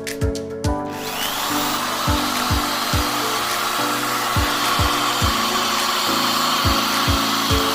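Electric hand drill rigged as a sander, spinning up about a second in with a rising whine, then running steadily with a rough rasping noise of sanding. Background music with a steady beat plays underneath.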